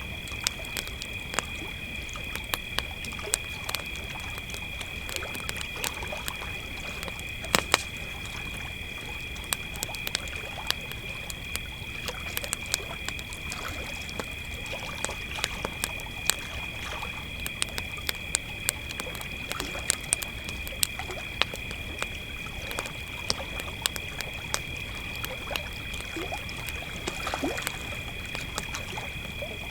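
A cricket chorus as a steady, high-pitched trill, with a wood campfire crackling and popping in sharp, irregular snaps over it.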